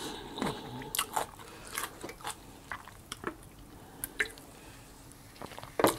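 Close-miked eating sounds: soft chewing and small wet mouth clicks, then quiet sips from a drink can, with a louder tap near the end.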